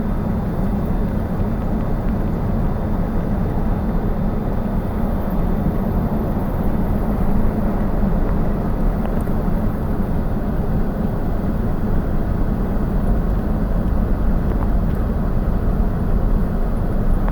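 Steady low drone of a vehicle driving along a road, with engine and road noise and no change in pace.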